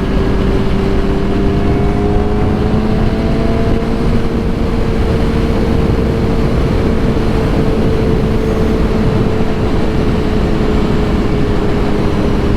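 Suzuki GSX-R 750 inline-four running steadily through a new M4 full exhaust, a loud, even exhaust note whose pitch rises slightly over the first few seconds and then eases back.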